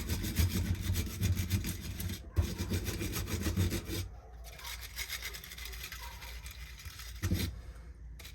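Scrubbing a carburetor part clean with rapid back-and-forth strokes, loudest in the first half and lighter after about four seconds.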